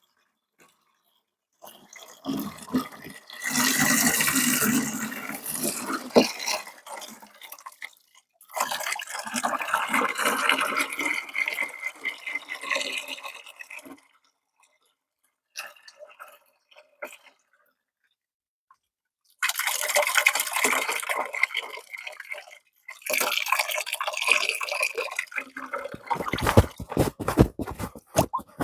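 Water splashing and sloshing in a bath pan of washing, in several separate spells with quiet gaps between, followed near the end by a quick run of sharp knocks.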